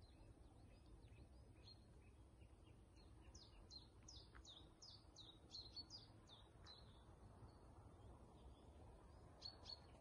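Faint songbird calls: a quick run of short, high, falling chirps in the middle, and a few more near the end, over a faint low background hum.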